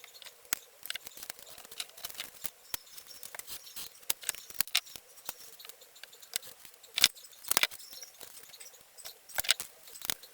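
Workbench handling noises: irregular light clicks and taps, with a few sharper knocks a little past two-thirds of the way through and again near the end. No motor is running.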